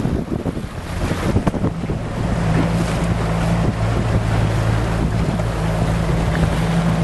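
Strong wind buffeting the microphone aboard a Wayfarer sailing dinghy, with water rushing and splashing. From about two seconds in, a steady low hum joins the wind.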